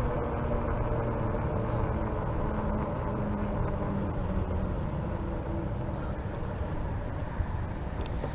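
Steady riding noise from a RadRover fat-tire e-bike on the move, mostly a low rumble with faint shifting tones.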